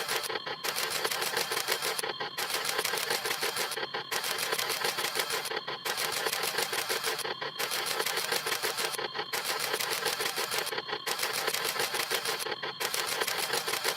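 Camera shutter sound effect snapping in a rapid, continuous run of clicks, with a short break about every second and a half.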